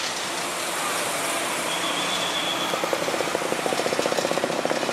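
Heavy diesel machinery running under load. In the second half a fast pulsing rattle comes in, about a dozen beats a second.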